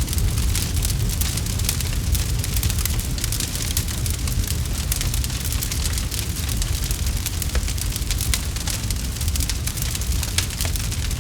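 Campfire burning, with dense, irregular crackling and many small pops over a steady low rumble.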